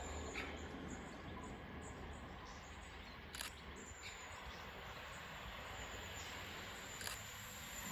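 Faint outdoor background ambience with a low steady hum and a couple of faint clicks.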